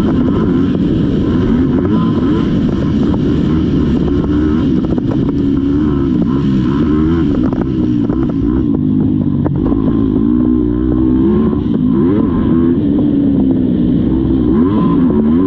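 Motocross dirt bike engine running hard under racing load, its pitch repeatedly rising and falling as the throttle is opened and closed.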